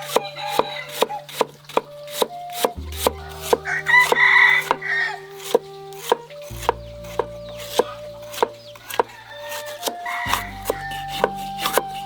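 Knife chopping on a cutting board in a steady rhythm, about two to three strikes a second, with a rooster crowing briefly about four seconds in.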